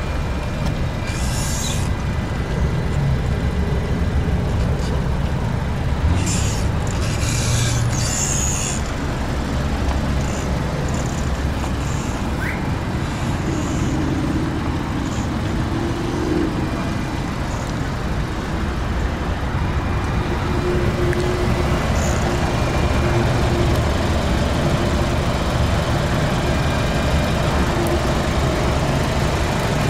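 Steady low rumble of motor-vehicle noise, with brief hissing bursts about a second in and again from about six to nine seconds in.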